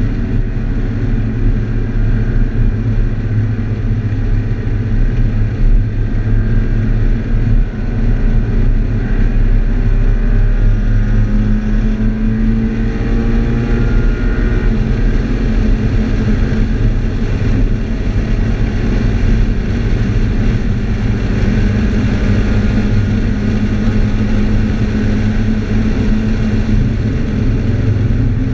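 2013 Scion FR-S's 2.0-litre flat-four engine pulling hard on a race track, heard from inside the cabin under loud road and wind noise. The engine note rises and drops several times as the car accelerates and slows.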